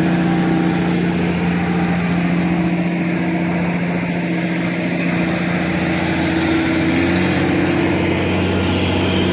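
Steady mechanical drone from a running motor, with an even low hum that does not change.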